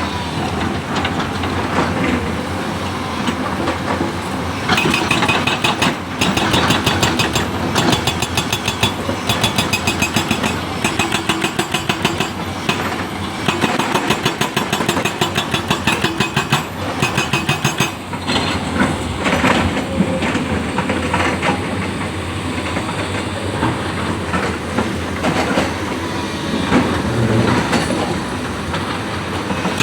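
Excavator running under load, with a rapid, even metallic clatter through much of the middle that eases off after about eighteen seconds.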